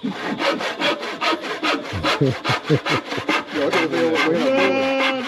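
Hand saw cutting through wood with quick, even back-and-forth strokes.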